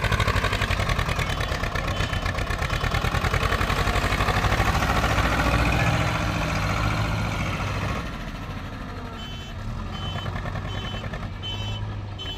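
Diesel tractor engine running hard under the load of a full trolley, with a fast, even pulse; it drops off somewhat about two-thirds of the way in. Over the quieter engine near the end, a high electronic beep repeats about twice a second, like a reversing alarm.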